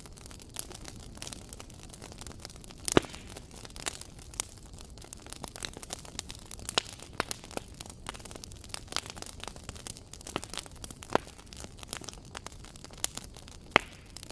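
Wood fire crackling in a fireplace: a steady run of small, sharp crackles over a low hiss. A few louder pops stand out, about three seconds in, about eleven seconds in and near the end.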